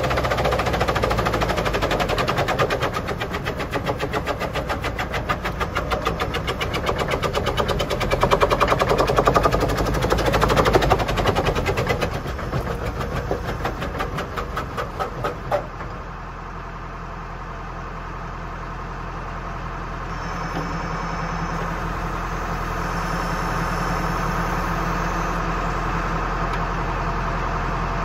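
Tractor-driven Junkkari HJ500 wood chipper working under load: a fast, even clatter over the running machinery. About halfway through the clatter stops and only a steady engine and drive hum runs on.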